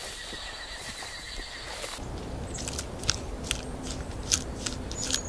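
Flying fox (fruit bat) giving scattered short, sharp squeaks and clicks from about two seconds in, over a steady background hiss. Before that there is only faint forest ambience.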